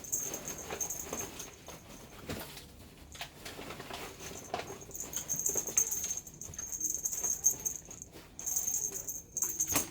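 Kittens moving about and playing, making light pattering, scratching and knocking sounds. A high, steady whine keeps cutting out and coming back.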